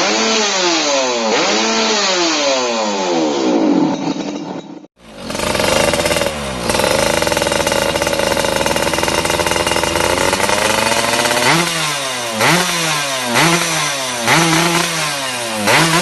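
Yamaha F1ZR two-stroke single revving through an RTX racing exhaust: repeated throttle blips, each falling away. The sound breaks off near five seconds; after it the engine is held at high revs for about five seconds, then blipped sharply about once a second.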